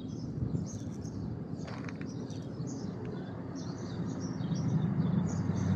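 Birds chirping in short scattered calls over a steady low rumble that grows a little louder in the second half.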